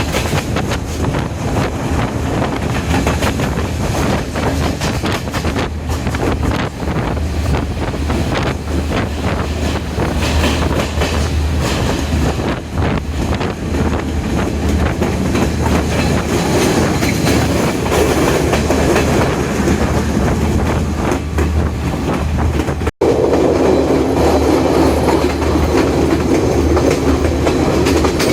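Chinese-built diesel multiple-unit express train running at speed: a steady rumble with the wheels clicking rapidly over the rail joints. There is a momentary dropout about 23 seconds in, after which the rumble is louder.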